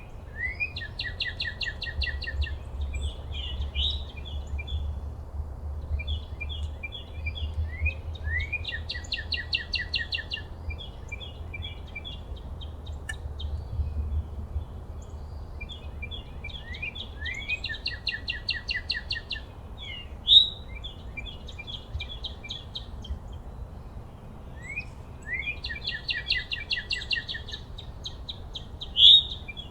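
A songbird singing the same song phrase four times, about every eight seconds: rising notes that run into a fast trill and then a string of short notes. Under it are a steady faint outdoor hiss and, in the first half, a low rumble.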